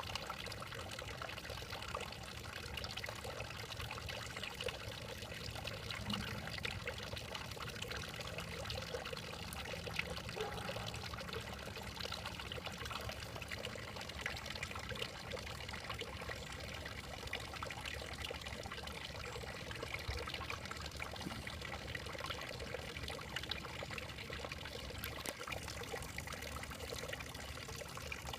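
Steady trickling, running-water-like noise with faint scattered ticks.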